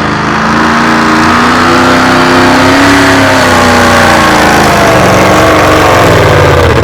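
Pulling truck's engine at full throttle, loud and continuous, its pitch climbing for about three seconds and then sagging as the truck drags the weight sled down the track.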